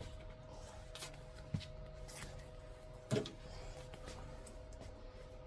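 A few light clicks and knocks of hands handling small parts and pieces of material, the loudest about three seconds in, over a faint steady two-tone hum.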